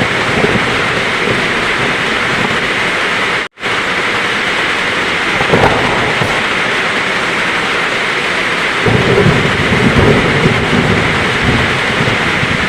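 Heavy rain falling steadily as a dense hiss, with a low rumble of thunder coming in about nine seconds in and lasting to the end. The sound cuts out completely for an instant about three and a half seconds in.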